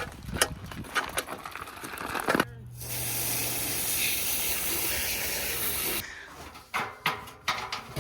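A steady hiss with a low hum beneath it, starting abruptly about two and a half seconds in and cutting off after about three and a half seconds. Light knocks and clatter come before and after it.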